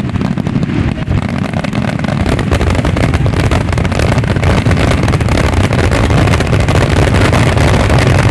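Dense barrage of aerial firework shells bursting in rapid succession: overlapping booms merging into a continuous rumble, with crackle on top, growing a little louder after about two seconds.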